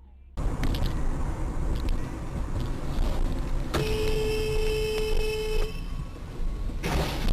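Road and engine noise of a car driving, picked up by a dash cam, with a car horn held for about two seconds in the middle. Near the end there is a short burst of noise.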